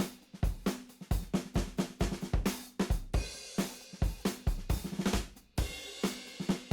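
Background music: a drum kit playing a steady beat of kick, snare, hi-hat and cymbal.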